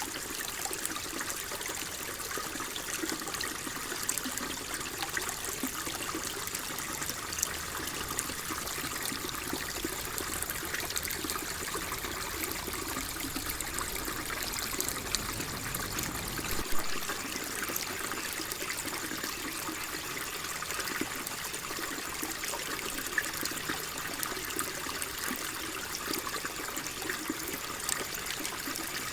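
Water flowing and trickling steadily, with small splashes and droplets through an even rush. A faint low rumble underneath cuts off suddenly a little over halfway through.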